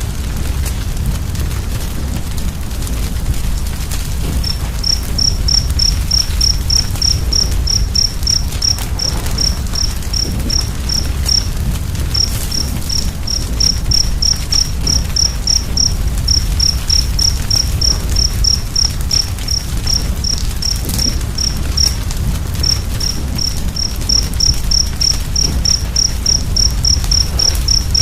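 Wood fire crackling over a low steady rumble. From about four seconds in, a cricket chirps in a steady high-pitched rhythm of several chirps a second, pausing briefly a few times.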